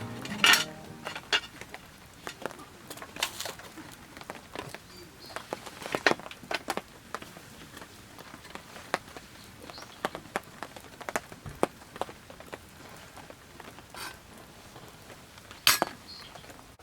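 Camp cookware and utensils being handled: scattered clinks, clicks and light knocks, with a couple of louder knocks near the start and near the end.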